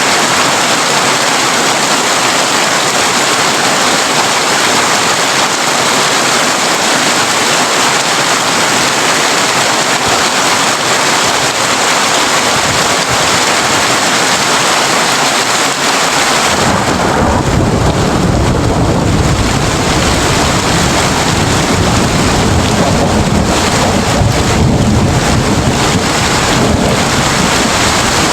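Heavy rain drumming on a tin roof, a steady dense hiss. A little over halfway through, a long low rumble of thunder comes in and carries on to the end.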